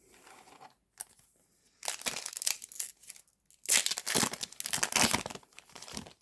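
A foil Yu-Gi-Oh booster pack wrapper being torn open and crinkled by hand. There is a shorter rustle about two seconds in, then a longer, louder tear and crinkle around the middle.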